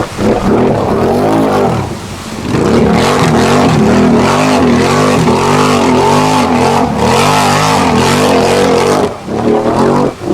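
Off-road vehicle engine revving hard in a mud bog. The revs rise and fall in quick repeated surges, about one and a half a second, then drop off near the end.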